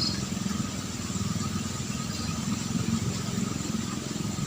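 A small engine running steadily with a low rumble, without a change in speed.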